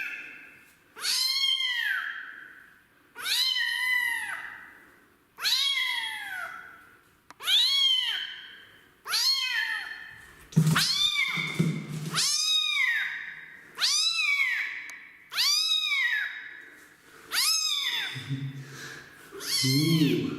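Kitten meowing loudly over and over, about one long meow every two seconds, each rising then falling in pitch: protest calls from a kitten that doesn't want its bath.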